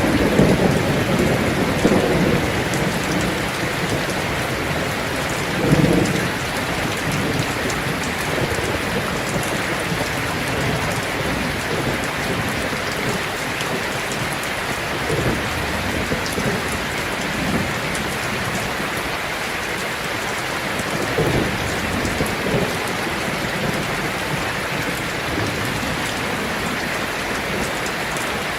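Heavy rain drumming steadily on a tin roof, with a few short, low rumbles of thunder: one right at the start, one about six seconds in and one past the twenty-second mark.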